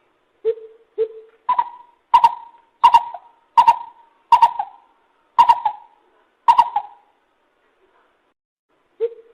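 Lesser coucal calling. It gives two low hoots, then a run of seven louder, higher hollow notes, each with a sharp start that quickly falls away, spaced a little under a second apart and slowing toward the end. One more low hoot follows near the end.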